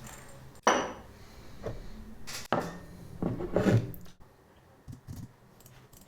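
Dishes and utensils being handled: a sharp knock about a second in, another near the middle, then a short run of clinks and clatter, and a faint tap near the end.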